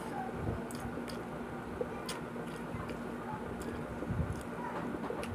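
Close-up eating sounds: chewing with wet mouth clicks and smacks, a few sharp clicks scattered through, over a faint steady hum.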